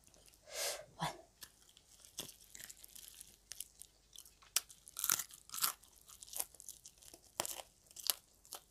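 A person biting and chewing crispy fish-sauce-fried frog, with irregular sharp crunches.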